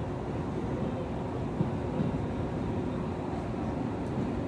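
Electric commuter train running, heard from inside the passenger car: a steady rumble of wheels on the rails with a faint hum, and a couple of light knocks about a second and a half in.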